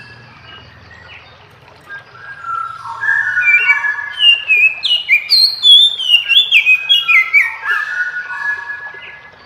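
Oriental magpie-robin (kacer) singing: a series of clear, held whistled notes, then from about three seconds in a fast, loud run of higher sliding, falling whistles that fades near the end.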